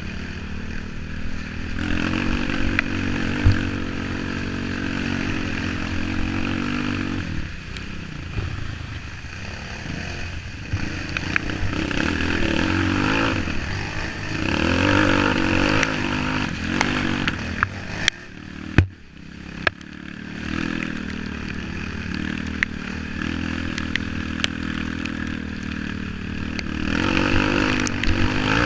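Off-road trail motorcycle engine running and revving up and down, with scattered knocks and clatter. The engine briefly drops away about two-thirds of the way in.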